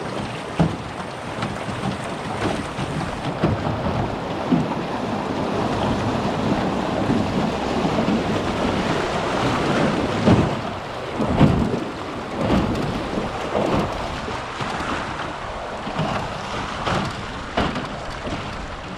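Wind buffeting the microphone in irregular low gusts and thumps over a steady rushing noise.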